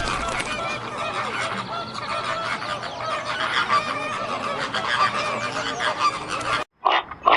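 A flock of birds calling over one another, many short overlapping calls, with goose-like honking. The sound cuts off abruptly near the end, and two short, loud calls of a different kind follow.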